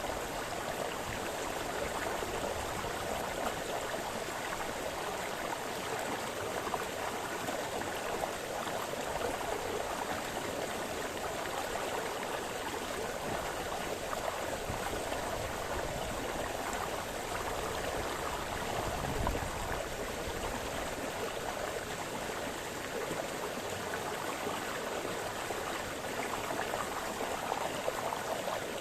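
Small forest brook splashing and babbling over stones in a steady, continuous rush.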